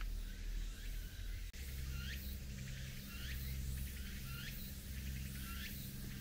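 A small bird calling about once a second, each call a short rising chirp, over a low steady hum.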